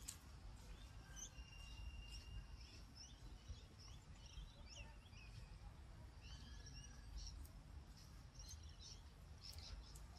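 Faint small birds chirping: many short high calls, with one held note about a second and a half in, over a low steady background rumble.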